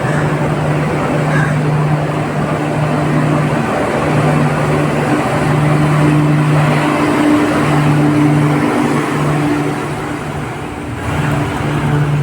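Passenger train running: steady rushing noise of the coaches on the track, with a low hum that drops out and returns every second or two.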